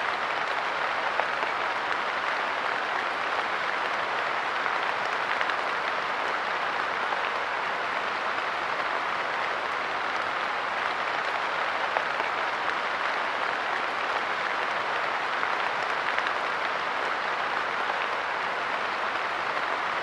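Light rain falling steadily on a park bench: a dense, even patter of drops, with now and then a single sharper drop standing out.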